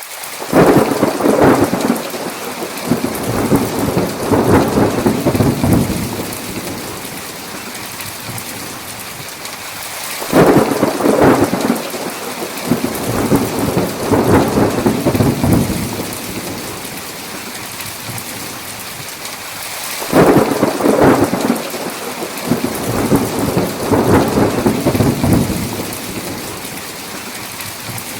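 Thunderstorm: steady heavy rain hissing, with three rolls of thunder that start suddenly about ten seconds apart, each rumbling and fading over several seconds.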